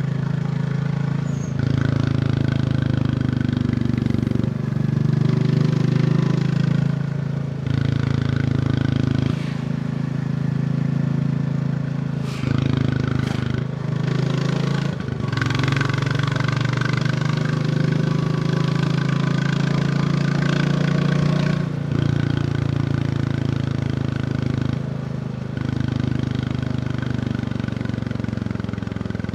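Royal Enfield Bullet 350's single-cylinder engine running on the move, its note stepping up and falling back every few seconds as the throttle is opened and closed. A few sharp clicks sound around the middle.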